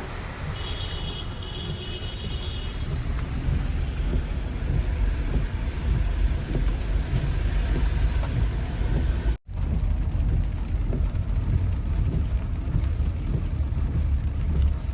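Car driving in heavy rain: a steady low rumble of engine and tyres with rain noise over it. The sound cuts out for a moment about nine and a half seconds in.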